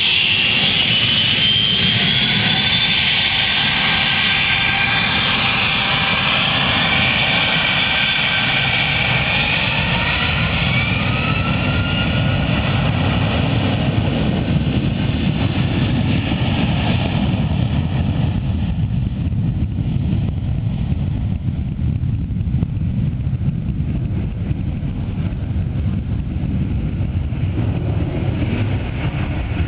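Boeing 757-200 jet engines at high thrust: several whining tones rise in pitch over the first dozen seconds over a steady low rumble, then the whine fades and the rumble carries on.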